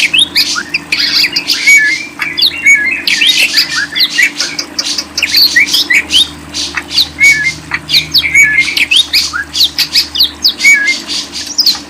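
Caged pet birds chirping and squawking in a fast, unbroken stream of short, shrill calls and quick downward squeaks, several a second.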